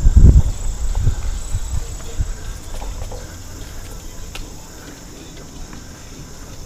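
Wind buffeting the microphone while cycling, strong in the first second or two and then easing off, over a steady high drone of insects.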